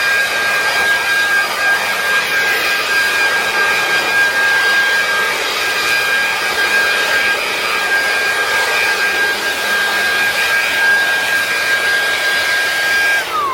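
Handheld blower running steadily at full speed with a high whine over its rush of air, blowing out debris. Near the end it is switched off and the whine falls as the motor spins down.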